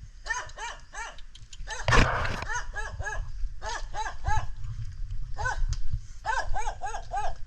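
A dog barking repeatedly at a person, in quick runs of sharp barks about three a second, with a short pause midway. A brief loud noise breaks in about two seconds in.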